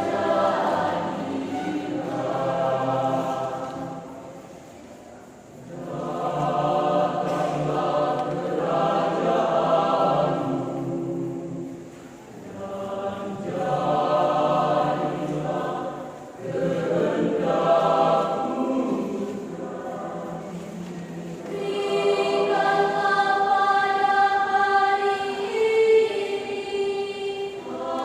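Church choir singing in several voices, in phrases broken by short pauses.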